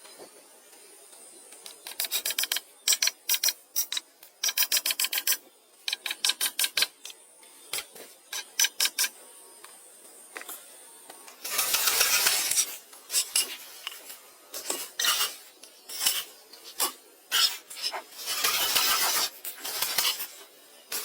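Scraping and rasping strokes, likely from a hand tool working wood. Short runs of quick, sharp strokes come first, followed later by two longer, rough rasping passes.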